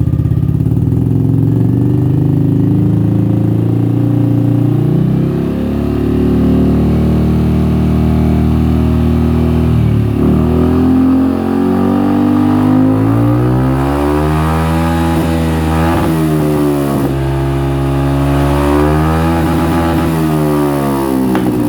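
Yamaha NMAX 155 scooter's single-cylinder engine running through a racing exhaust with the dB killer removed: at first it holds a fairly steady low speed, and then from about halfway it is revved up and dropped back several times.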